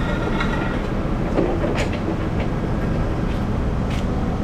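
Forklift engine running steadily, with a few sharp metal clanks as the forks knock against scrap.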